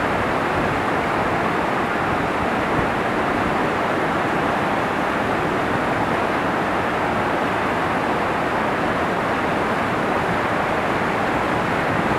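Loud, steady rushing roar of a large waterfall, water plunging and crashing without a break.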